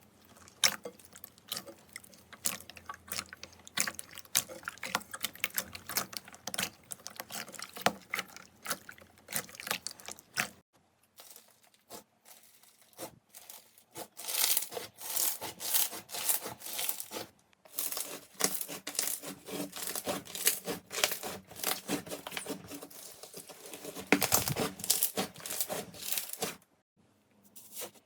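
Slime being squeezed and worked by hand, making a dense run of sticky clicks and crackling pops, broken by a few short pauses.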